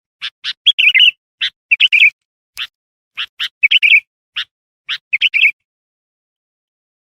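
Sooty-headed bulbul calling: a run of short, sharp chirps with four brief bubbling, warbled phrases among them, then falling silent for the last second and a half.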